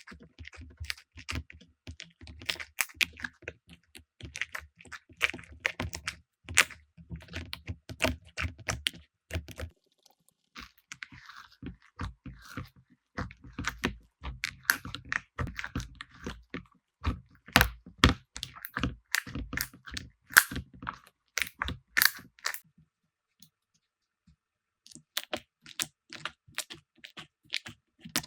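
Slime being squeezed and poked by hand, giving a rapid, irregular run of crackling clicks and pops. The crackling stops for about two seconds near the end, then resumes.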